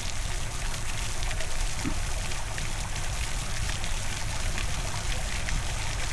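Wind buffeting the Insta360 Ace Pro's built-in microphones, a heavy choppy rumble under a steady hiss of rain and spray with small pattering ticks. The camera has no foam wind guard on.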